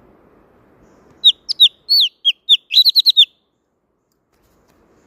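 A songbird, the thanh tước, singing a quick phrase of about a dozen short, sharp whistled notes, each sliding down in pitch, coming faster toward the end.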